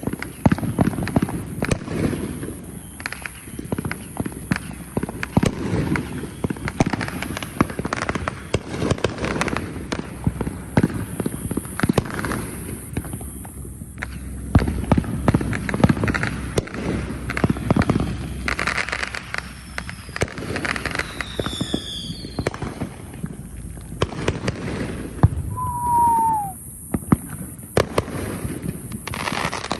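Fireworks going off in a continuous barrage of bangs and crackling, with a few whistles falling in pitch about two-thirds of the way through.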